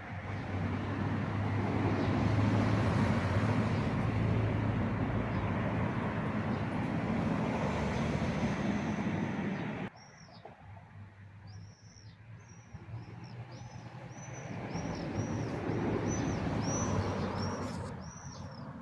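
A motor vehicle's steady rumble with a low hum, cutting off abruptly partway through; then a small bird chirping over and over, about two short high chirps a second, while another vehicle rumbles past.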